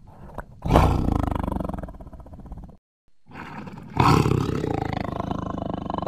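Sabre-toothed cat (Smilodon) roar sound effect: two loud roars, the first about a second in and the second about four seconds in, each starting hard and then trailing off, with a short silent gap between them.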